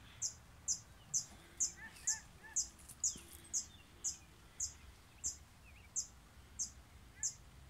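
A bird repeating a short, high-pitched chirp about twice a second at an even pace, with a few fainter, lower bird calls now and then.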